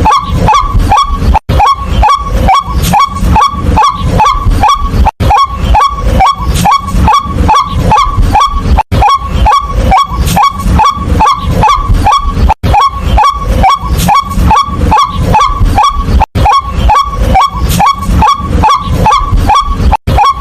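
White-breasted waterhen calling, a fast run of short rising 'kwak' notes at about three a second, with a brief break about every four seconds where the recording repeats.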